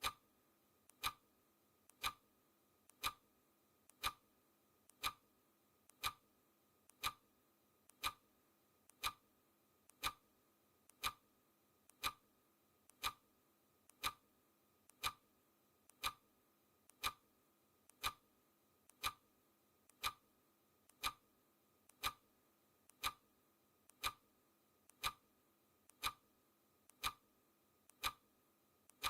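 Clock ticking at one tick a second, each tick a short, sharp click.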